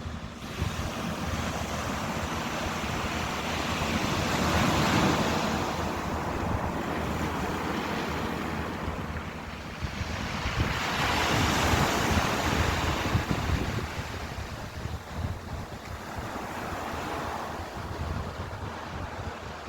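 Ocean surf: waves breaking and washing in, swelling to two big surges about five and twelve seconds in and a smaller one near the end. Wind rumbles on the microphone underneath.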